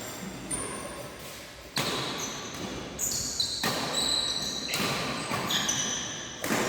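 Badminton rally in a hall: four or five sharp racket hits on the shuttlecock, roughly a second apart, with short high squeaks of shoes on the court between them.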